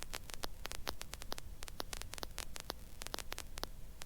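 Crackling static on a helicopter's intercom feed: irregular sharp clicks, several a second, over a low steady hum.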